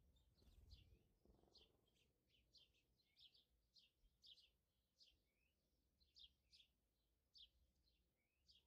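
Faint, repeated high chirps of a small bird, about two to three a second, with a brief low rustle about a second in.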